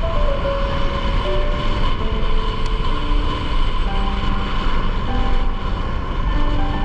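Steady wind and road noise of a motorbike ride, with a tune of short held notes running over it.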